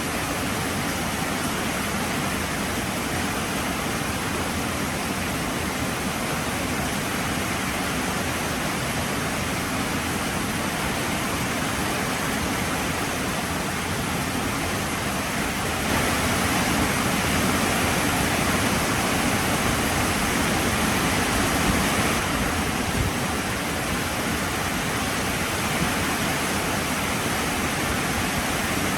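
Heavy rain falling steadily, a dense even hiss of drops. It grows a little heavier from about halfway through for several seconds.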